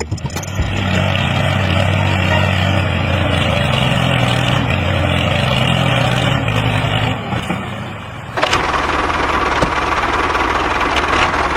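Engine running steadily; about eight seconds in the sound changes abruptly to a brighter, hissier tone.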